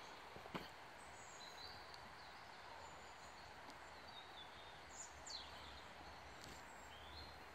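Near silence: faint outdoor background hiss with a few short, high bird chirps scattered through.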